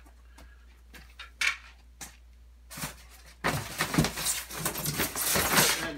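Unpacking noise from the metal saw-mounting rails and their styrofoam packing: a few light knocks, then from about three and a half seconds in a loud, dense stretch of scraping and clattering as the rails are handled against the styrofoam.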